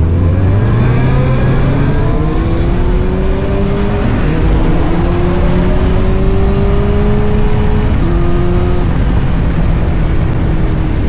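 Motorcycle engine accelerating up through the gears, pitch climbing and dropping at upshifts about four and eight seconds in, then holding a steady cruise, with wind rush.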